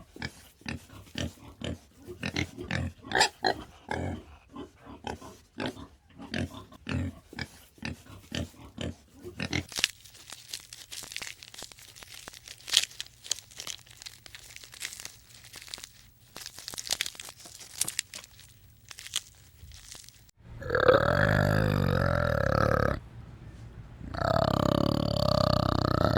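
An animal grunting in short, quick bursts, then after a quieter stretch two long, loud, drawn-out pitched calls, each about two and a half seconds.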